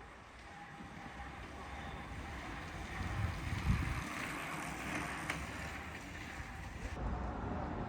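Steady rushing noise of a wet street in heavy rain, growing louder toward the middle, with low wind rumbles on the microphone about three and a half seconds in.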